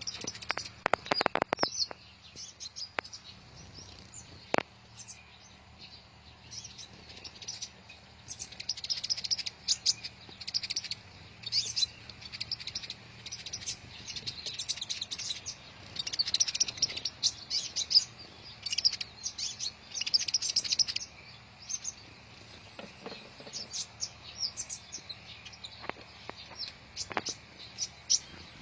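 Sunbirds chirping and twittering in quick, high-pitched bursts that come and go throughout, with several sharp clicks about a second in.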